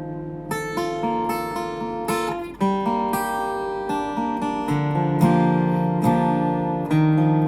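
Acoustic guitar on freshly fitted strings playing an instrumental intro: plucked and strummed chords struck every second or so, each left ringing.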